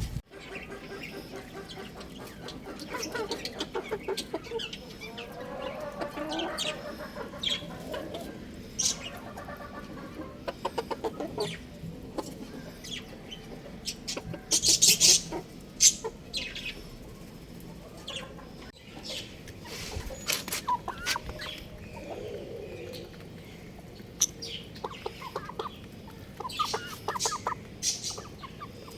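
Young rooster clucking and chirping in a string of short calls. A few sharp clattering knocks about halfway through are the loudest sounds.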